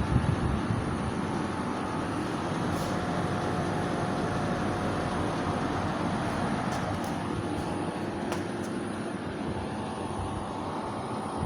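Midea air conditioner outdoor unit running: a steady whirring hum from its fan and compressor, with a faint steady tone and a few light ticks.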